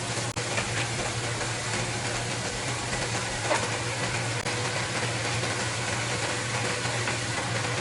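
A steady machine-like hum with an even hiss over it, and a few light clicks.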